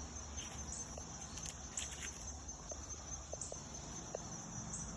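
Crickets chirping in a steady high-pitched chorus, with a few faint scattered clicks.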